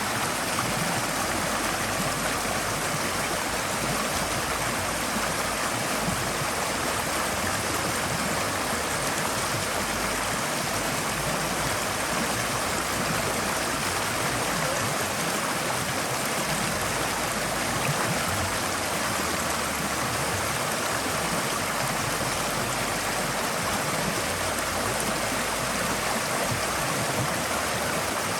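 Forest stream flowing steadily over rocks: an even, continuous rush of water with no breaks.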